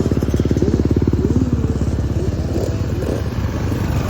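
Dirt bike engine running close by, a fast, even stream of firing pulses held at a steady speed.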